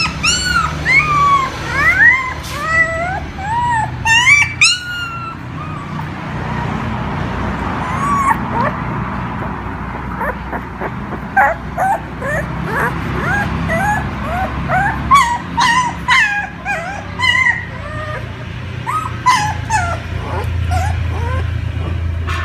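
Dogs whining and yelping: many short, high-pitched cries that rise and fall, coming in quick irregular runs and sometimes overlapping.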